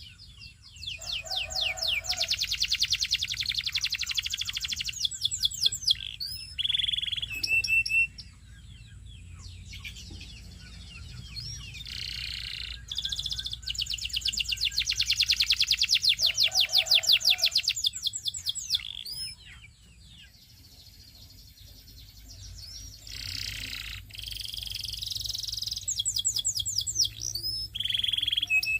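Belgian singing canary singing long song phrases of fast, evenly repeated high trills mixed with short chirped notes, pausing briefly between phrases. A steady low hum sits underneath.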